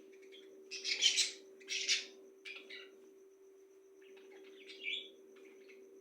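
Birds calling: two loud, harsh squawks about a second and two seconds in, then scattered shorter chirps. A steady low hum runs underneath.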